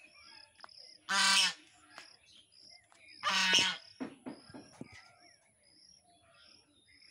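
A large bird gives loud, harsh calls, twice about two seconds apart. A small bird keeps up short, high peeps a few times a second in the background.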